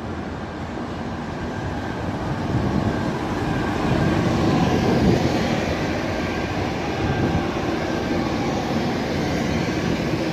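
Train rumbling and rattling past, the noise building to a peak about four to five seconds in, then easing a little.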